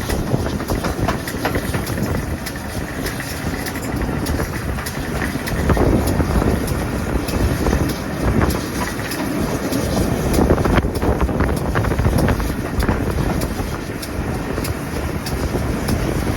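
Train running on a heritage railway line: a steady, loud rumble with irregular clicks and clatter.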